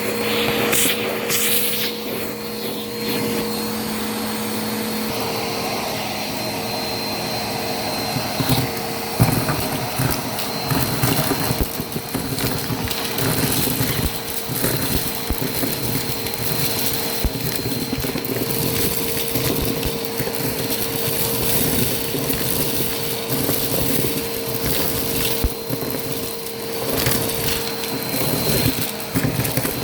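Vacuum cleaner running with a steady motor whine, while debris rattles and crunches irregularly as it is sucked up.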